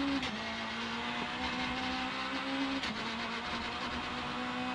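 Citroën C2 R2 Max rally car's four-cylinder engine held at high revs on a long straight, heard from inside the cabin, with two quick upshifts: one just after the start and one about three seconds in, the pitch then slowly climbing again.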